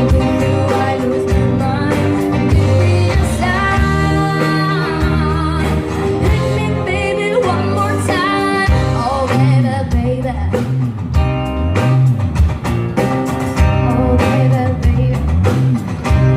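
Live band music with a lead singer over a strong bass line.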